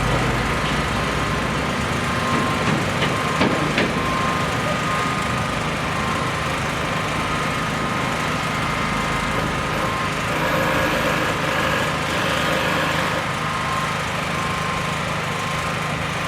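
Construction machinery engine running steadily at a constant pitch, with a couple of short knocks about three to four seconds in.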